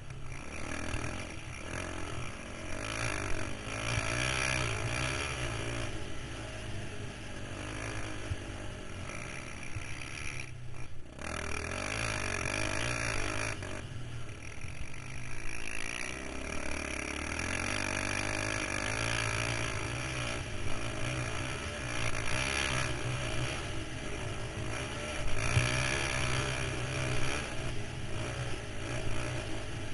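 KTM 525 XC quad's single-cylinder four-stroke engine running under load as it is ridden, its revs rising and falling, with a brief break in the sound about ten seconds in.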